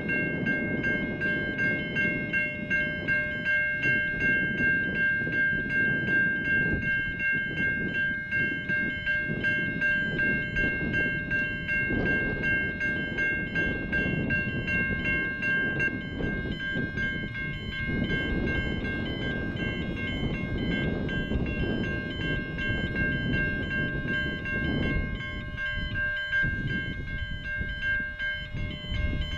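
A level crossing's Safetran Type 3 electronic bells ringing with a steady, high, pulsing tone over the rumble of a train passing over the crossing.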